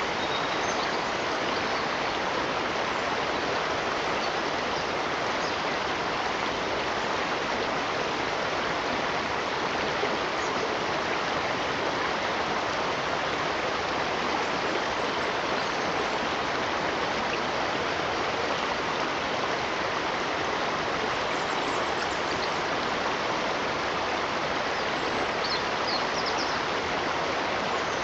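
Running water of a stream: a steady, even rush that keeps on without change.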